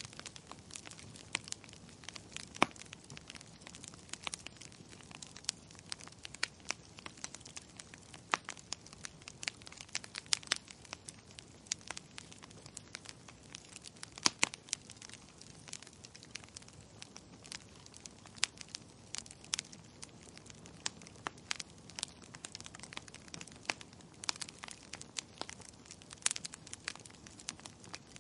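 Wood fire crackling: a soft steady hiss of burning logs with frequent sharp, irregular pops and snaps.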